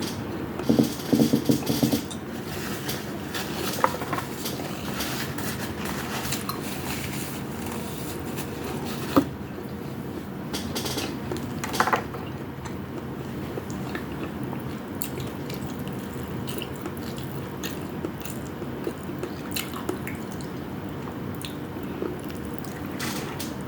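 A person eating: chewing and biting sounds with scattered sharp clicks, over a steady background hiss. A short cluster of louder sounds comes about a second in.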